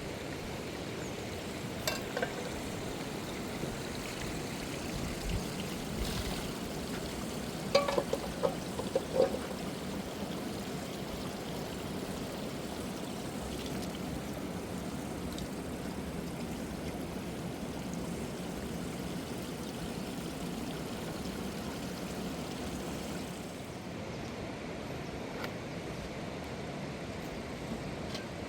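Water flowing steadily, a river or stream rushing with an even, continuous sound. A few short knocks come about two seconds in and again in a quick cluster about eight seconds in.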